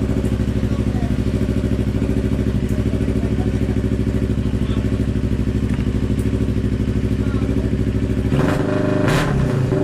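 A CFMoto 400NK's parallel-twin engine idling through an aftermarket SC Project-style slip-on exhaust. Its pitch shifts briefly about eight seconds in, a short blip of the throttle, before it settles back to idle.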